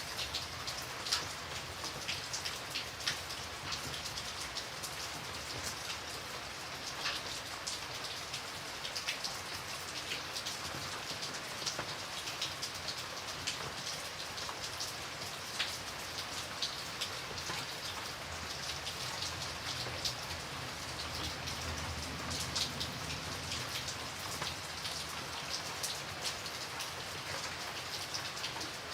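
Steady rain falling on a hard surface, a continuous hiss scattered with sharp individual drop impacts.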